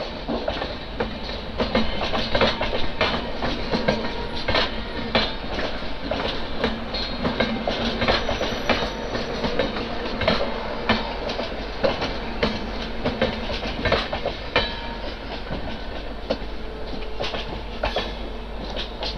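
Passenger express train of LHB coaches rolling past, wheels clicking irregularly over rail joints and points above a steady rumble.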